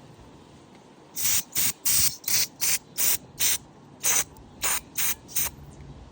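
Aerosol carburetor cleaner sprayed in about a dozen short hissing bursts, roughly two to three a second, to flush out small carburetor parts. The bursts start about a second in.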